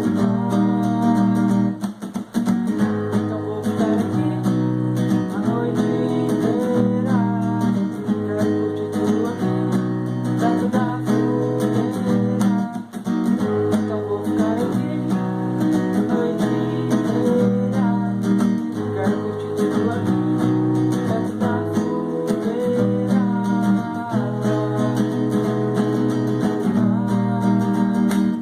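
Acoustic guitar music, strummed chords with a melody running over them.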